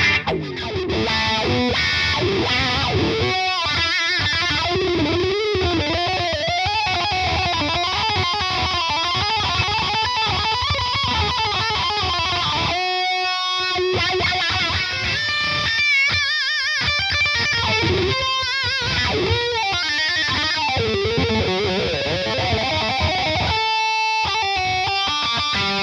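Electric guitar played through a Hotone Soul Press wah/volume pedal: a continuous run of notes and phrases whose pitches waver and bend, with a couple of short pauses in the low strings.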